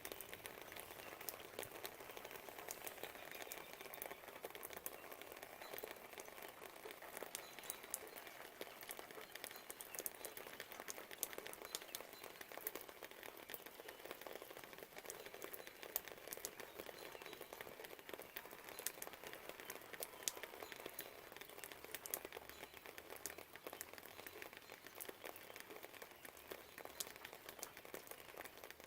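Light rain pattering and dripping: many scattered sharp drops over a soft steady hiss.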